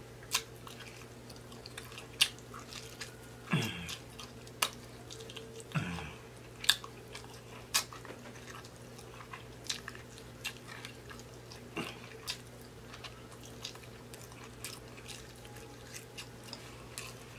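Close-up mouth sounds of a person gnawing and chewing meat off a baby back rib bone: scattered wet smacks and clicks of lips and teeth. Two brief falling hums from the eater come about 3.5 and 6 seconds in.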